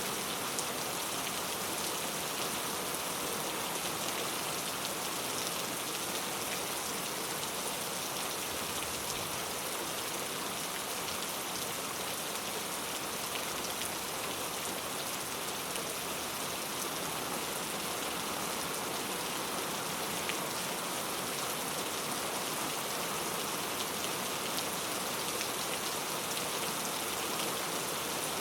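Heavy rain falling steadily on mango tree leaves: a dense, even hiss of drops pattering on the foliage.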